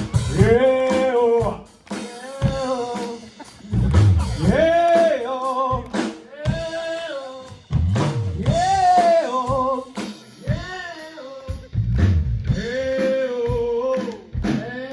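Live rock band: a vocalist sings long, gliding phrases over a drum kit, with sharp snare hits and heavy kick-drum thumps.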